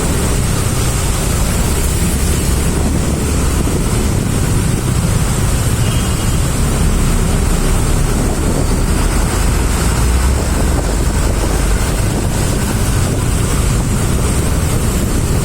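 Steady road traffic noise in a city traffic jam: a continuous low rumble of engines and tyres, with wind buffeting the microphone.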